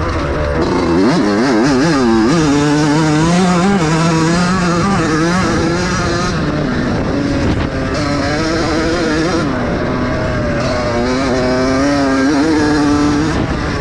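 Several vintage motocross bikes racing, their engines revving up and down as the riders work the throttle and shift, with overlapping engine notes rising and falling.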